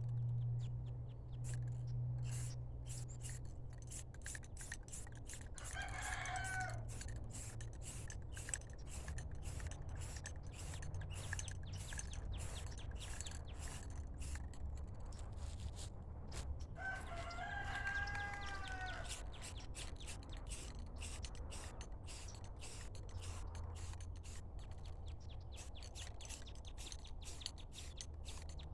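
A rooster crows twice, once about six seconds in and again about seventeen seconds in, each crow lasting one to two seconds. Between the crows there is a steady run of short scratchy clicks and a low hum.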